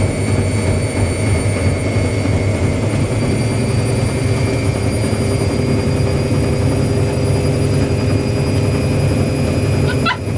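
Front-loading washing machines on their final high-speed spin: a steady low rumble from the spinning drum with a constant high motor whine over it.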